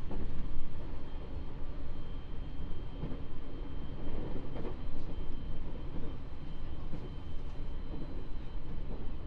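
Inside a JR East 701 series electric train running along the line: a steady rumble of wheels on rail, with a faint steady high whine and a few soft knocks from the running gear, recorded binaurally in the carriage.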